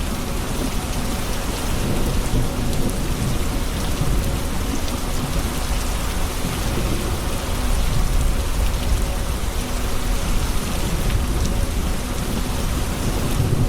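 Steady heavy rain falling and pattering on surfaces, over a continuous low rumble of thunder.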